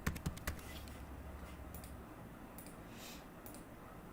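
Light keystrokes on a computer keyboard: a quick run of several clicks in the first half-second, then a few scattered fainter clicks.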